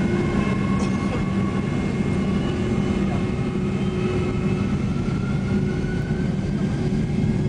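Boeing 767 jet engines running at high power with a steady heavy rumble, and a whine that rises slowly in pitch as the airliner takes off.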